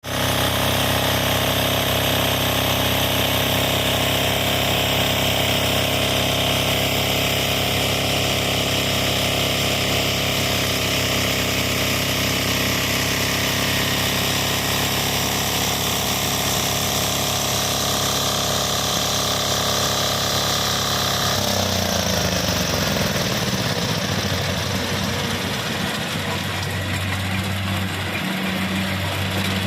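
Kubota combine harvester's diesel engine running steadily at high revs. About two-thirds of the way through the revs drop, the pitch falling over a couple of seconds, and it settles into a lower, steady idle.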